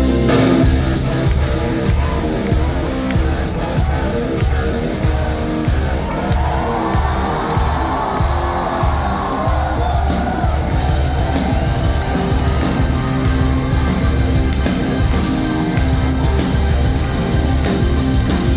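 Rock band playing loud and live. The full band with drums comes in right at the start and plays on without vocals.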